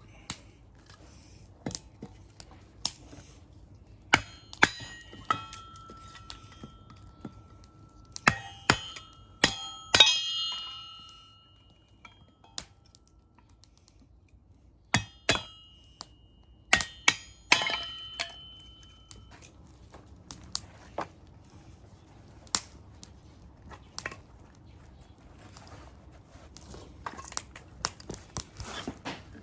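Irregular sharp knocks and metallic clinks and clangs, several of them ringing on for a second or two after the hit, with quieter ticks in between.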